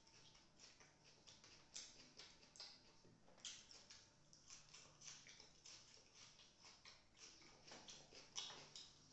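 Faint, close-miked chewing of chicken tikka and raw onion slices: irregular wet mouth clicks and small crunches, several a second.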